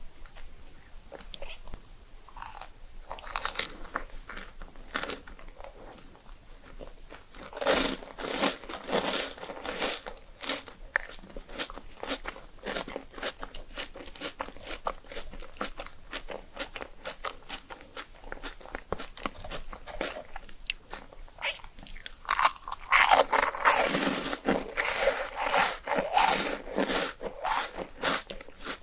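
A person biting into and chewing crisp puffed rice cakes: crunching in three bursts, the loudest near the end, with softer chewing clicks between.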